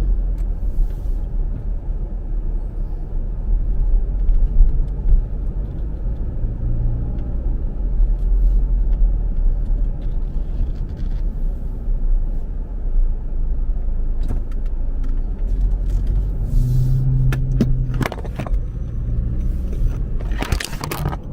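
A car running with a steady low rumble and hum of engine and road noise, with a few sharp clicks near the end.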